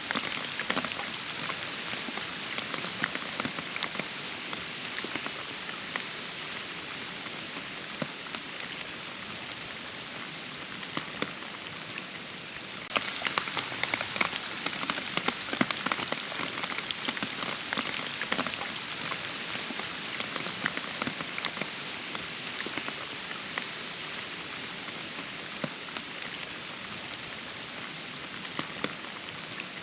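Steady rain falling, a dense hiss full of individual drops ticking on surfaces. About 13 seconds in it turns suddenly louder and stays so.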